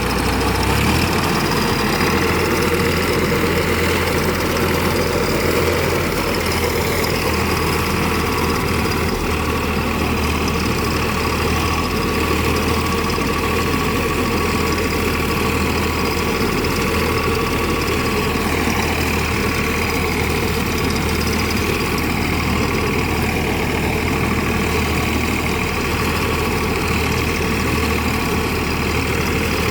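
Tractor engine running steadily, an even low drone with no change in speed.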